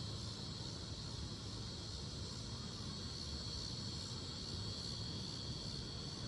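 Cicadas singing in a steady, high-pitched chorus over a low, even rumble.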